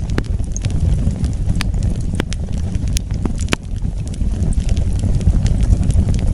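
Wood fire burning: a steady low rumble of flames with sharp crackles and pops from the burning wood, scattered irregularly and a few of them loud.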